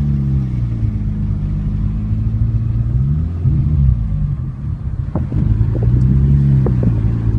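Car engine heard from inside the cabin, its pitch rising and falling several times as the car speeds up and slows down. A few short clicks come near the end.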